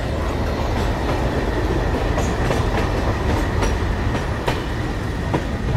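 Passenger train coaches rolling into a station, heard from alongside the moving coach: a steady low rumble of the wheels with a few irregular clicks over the rail joints and a faint thin high squeal.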